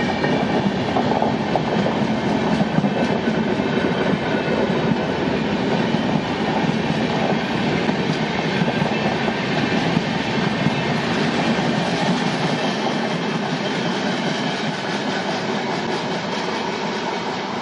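Express train's passenger coaches passing close at speed: a steady rumble of wheels on rail with rapid clickety-clack over the rail joints. The deep rumble thins in the last few seconds as the end of the train goes by.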